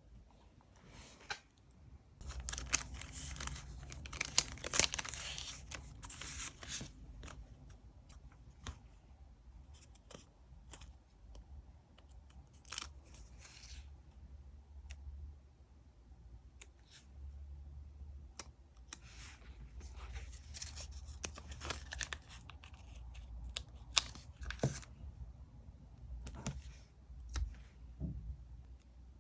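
Paper-craft handling at a desk: paper, stickers or tape being torn and crinkled in two longer stretches, with scattered sharp taps and clicks between them.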